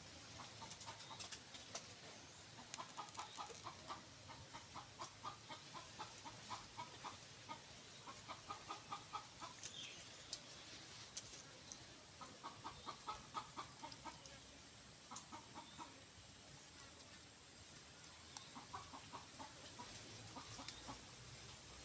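A bird's rapid clucking calls, given in short runs of quick even pulses and repeated several times, over a faint steady high whine.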